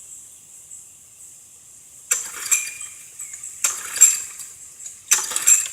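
Push mower's recoil starter being pulled three times, about a second and a half apart, cranking the engine without it firing. Crickets chirp faintly throughout.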